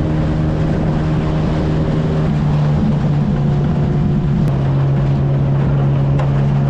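Outboard motor of a small aluminum fishing boat running under way with a steady hum. Its note drops a step about four seconds in.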